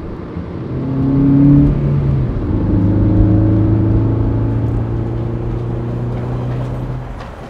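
Car engine revving up hard, then dropping to a steady lower pitch and fading away.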